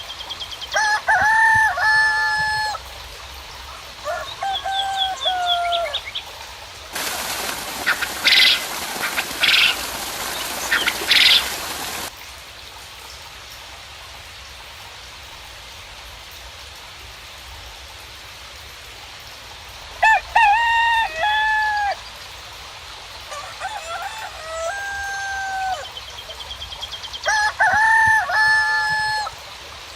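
Roosters crowing again and again in long, drawn-out calls, with small birds chirping high above. A steady hiss of rain runs underneath, and a noisier stretch of about five seconds a quarter of the way in carries three loud, short, high calls.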